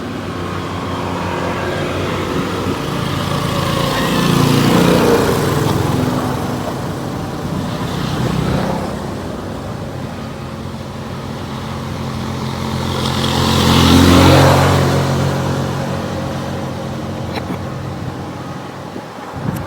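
A vehicle engine running steadily, swelling louder twice, about five seconds in and again, loudest, about fourteen seconds in, with its pitch gliding around each swell.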